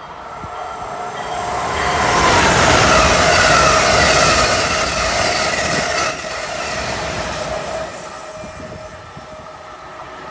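Amtrak Acela Express trainset running through the station at speed: the rush of noise builds as it approaches, with a falling whine as it arrives, then stays loud with wheel-on-rail noise as the cars pass. The noise drops off sharply about nine seconds in as the last car clears.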